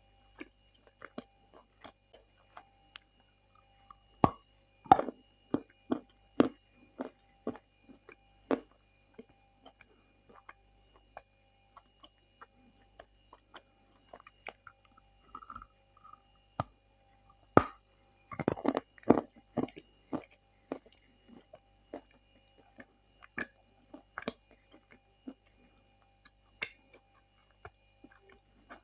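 Close-miked chewing and biting of Bashkir edible clay, with sharp crunchy clicks. They come in two busy spells, about four to nine seconds in and again about seventeen to twenty seconds in, with sparser, quieter chewing between.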